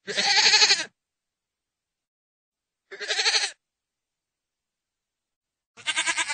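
Goat bleating: three separate wavering bleats, the first the longest at nearly a second, the others about half a second each, with silence between them.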